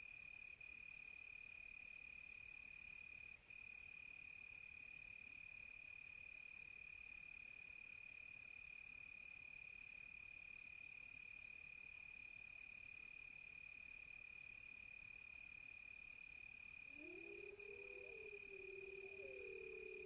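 Faint crickets and other night insects chirping steadily: one constant high trill, with faster pulsed chirping above it. About three seconds before the end, wolves begin howling, several voices gliding up and down and overlapping.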